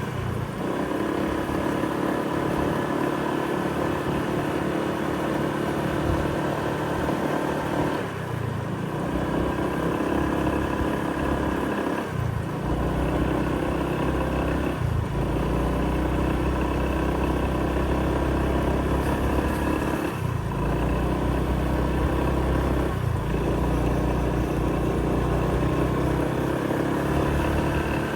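A motor vehicle engine running steadily close by, its hum shifting in pitch every few seconds, with a deeper rumble from about halfway in.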